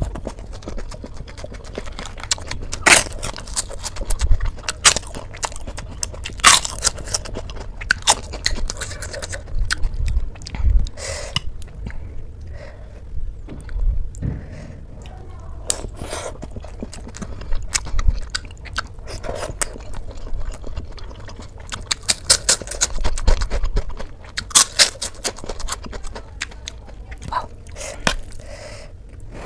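A person chewing and biting food close to the microphone: wet mouth sounds with irregular sharp crunches, from a meal of spicy instant noodles and fresh greens.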